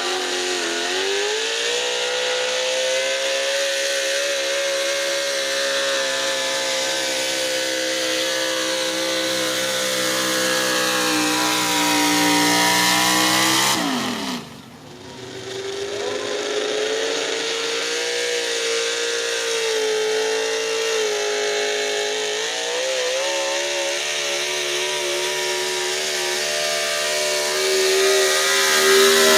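Super stock pulling truck engine at full throttle down the track, a loud, steady howl whose pitch slowly climbs. About fourteen seconds in it falls away sharply, then another truck's engine comes up and holds at full throttle.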